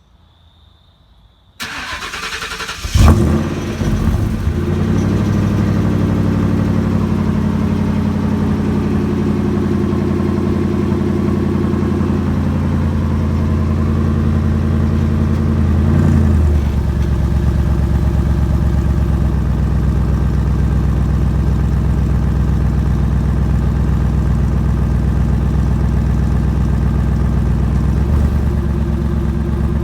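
4.6 L 32-valve modular V8 exhaling through glasspack mufflers: the starter cranks briefly, the engine catches with a loud flare about three seconds in, then settles into a steady, droning idle that drops to a lower pitch about halfway through. The uploader calls this glasspack sound terrible on this engine.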